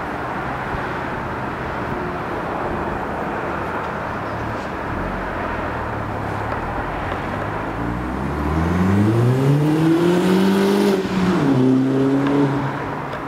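VW GTI 1.8T turbo four-cylinder with a non-resonated Megan Racing cat-back exhaust, running steadily under a hiss of road or wind noise. About eight seconds in, the revs climb and the exhaust grows louder for about three seconds. The pitch then drops abruptly and holds steady at a lower pitch.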